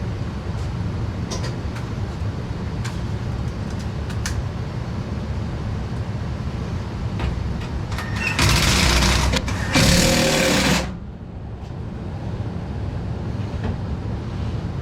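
Steady low mechanical hum with a few light clicks and taps. About eight seconds in come two loud hissing bursts, each about a second long, and after them the high hiss stops.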